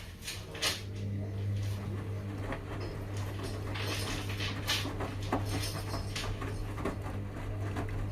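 Washing machine running a delicates wash: a steady motor hum from the turning drum, with scattered light clicks and knocks.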